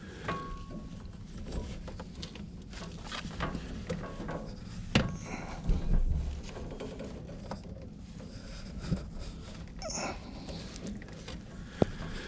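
Scattered clicks, knocks and rustles of hands working inside a heat pump's outdoor unit, putting electrical tape between the wiring and the copper lines. The sharpest click comes about 5 s in, with a knock just after.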